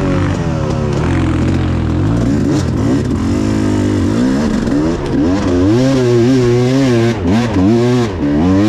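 Enduro motorcycle engine revving, its revs rising and falling again and again as the throttle is worked, with quick up-and-down blips in the second half.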